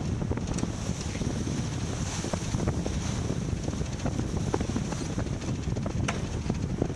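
Wind buffeting the microphone aboard a sailboat under way, a steady low rumble with scattered small clicks and knocks and one sharper click about six seconds in.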